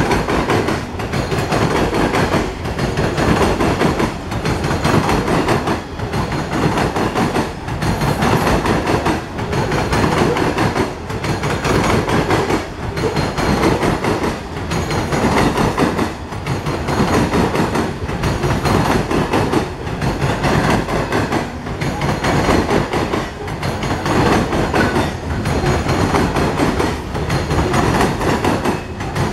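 Coal hopper cars of a Norfolk Southern freight train rolling past at close range. The steel wheel-on-rail noise is loud and continuous, swelling and dipping about every two seconds.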